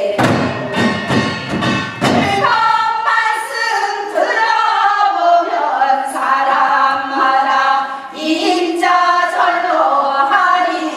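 Several voices singing a Gyeonggi hwimori japga, a fast-paced Korean folk song sung as a group, with percussive drum strokes in the first couple of seconds and again near the end.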